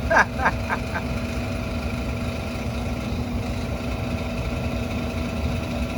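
Gas-fired garage unit heater running, its blower fan motor giving a steady hum. The motor is worn and has only been patched up; it still needs replacing.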